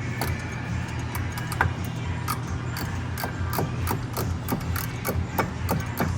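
Hand ratchet wrench clicking in short irregular runs while drive shaft bolts are run in, over a steady low hum.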